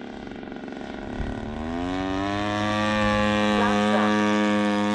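EME60 60cc two-stroke gas engine of a giant-scale RC airplane, turning a three-blade propeller, in flight; about a second in it rises in pitch and gets louder, then runs steadily at the higher speed.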